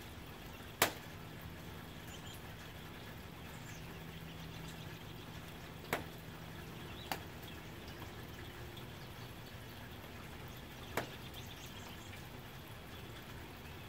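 Soft rain on a tin roof: a steady hiss of falling drops. Four louder single drips strike sharply, about a second in, twice near the middle and once near the end.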